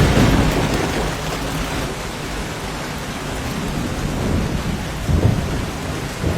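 Steady rain with rolling thunder: a low rumble, loudest at the start, fades away, and two shorter rumbles swell up near the end.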